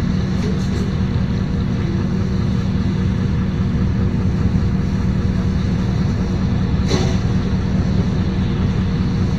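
LiAZ-5292.22-77 city bus running on the road, heard from inside the passenger cabin as a steady low drone with an even engine hum. A single short click or rattle sounds about seven seconds in.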